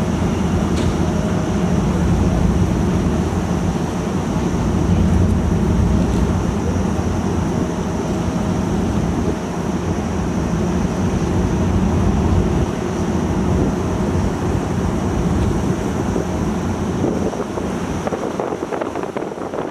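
Passenger ferry's engines running steadily: a loud, deep rumble under a wash of noise, with a faint high steady whine. The low rumble drops away near the end.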